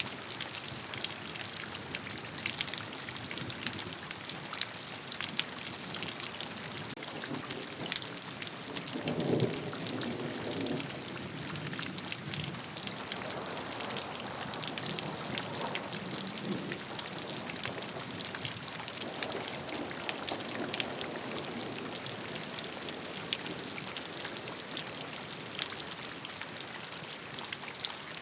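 Steady gentle rain falling on a surface, a constant patter full of distinct individual drop ticks, with a few brief swells in the lower sound in the middle.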